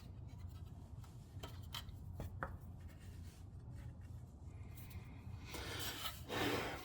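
Faint rubbing and scraping of hands handling metal parts under a truck, with a few light clicks about one and a half to two and a half seconds in and a short louder scrape near the end, as parts are checked for anything loose.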